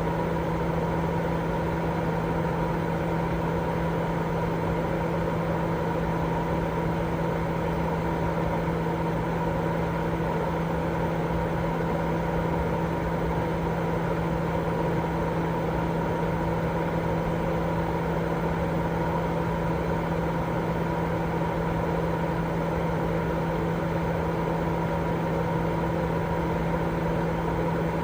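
Continuous white noise for baby sleep: an unchanging hiss weighted toward the lower and middle pitches, with a steady low hum and a fainter higher tone inside it, like a running fan or machine.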